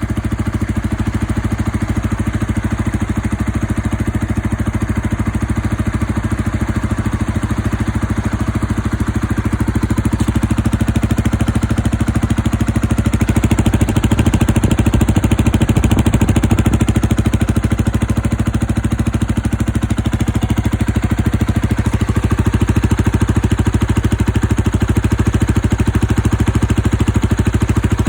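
Zontes ZT125 motorcycle running on an aftermarket exhaust, idling steadily, with a slight rise in engine sound for a few seconds around the middle.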